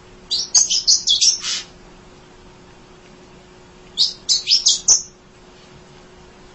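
Munia (emprit) chirping in two quick bursts of high, rapid chirps, each lasting about a second: one just after the start and one about four seconds in.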